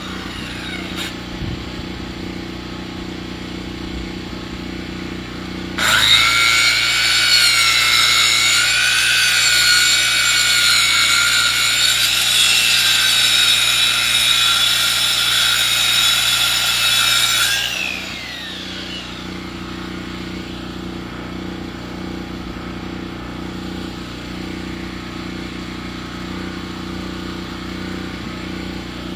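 Portable sawmill cutting a log: the engine runs steadily, and about six seconds in the blade enters the wood, giving a loud cutting noise with a wavering high whine for about twelve seconds. The whine falls away as the blade leaves the cut and the engine runs on.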